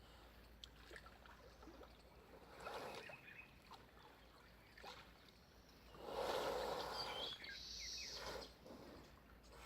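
Water splashing and sloshing as buffalo bathe in a pool, in irregular bursts, the longest and loudest from about six to eight and a half seconds in.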